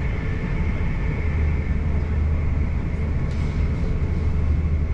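South Western Railway electric train running between stations, heard inside the carriage: a steady low rumble of the wheels on the track, with a faint steady high whine over it.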